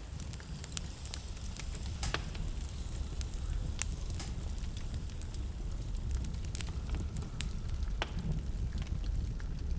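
Wood fire burning in a fireplace: a steady low rumble of flames with irregular sharp crackles and pops, a few louder snaps at about two, four and eight seconds in.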